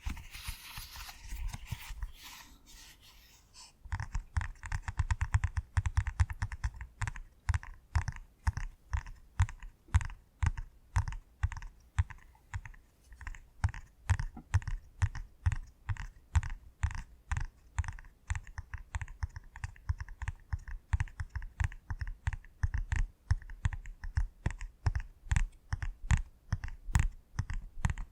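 Bubbles of a pop-it fidget toy being pressed one after another, giving a quick run of short pops, about three or four a second, from about four seconds in. Before that there is a softer, scratchy handling sound.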